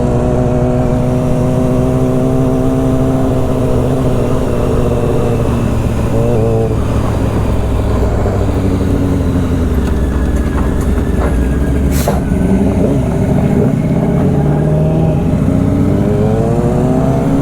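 Motorcycle engine running under way with wind noise, its pitch steady at first, falling about five to seven seconds in, then rising again near the end as the bike accelerates.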